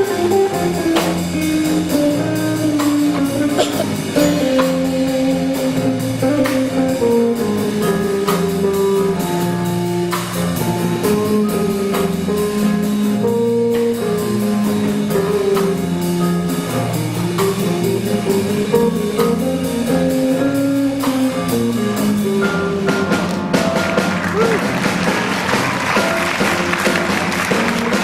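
School band playing a piece in a jazz-blues style, with a melody over a moving bass line. In the last few seconds an even wash of noise rises over the music.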